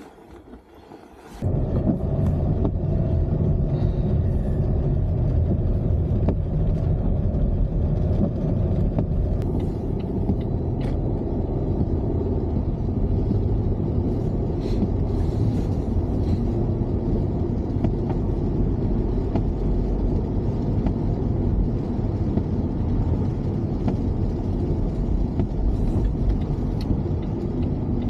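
Steady low road and engine rumble of a moving car, heard from inside the cabin; it starts abruptly about a second in.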